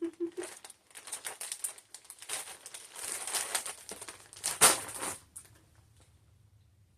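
Plastic snack packaging crinkling as it is handled, in irregular bursts with the loudest crackle about four and a half seconds in, dying away after about five seconds.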